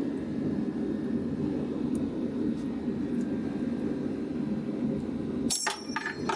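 Steady low mechanical drone, with a sharp metallic clatter about five and a half seconds in.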